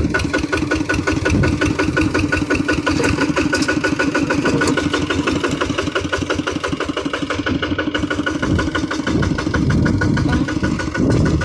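Kubota hand tractor's diesel engine running steadily, with a fast, even firing rhythm.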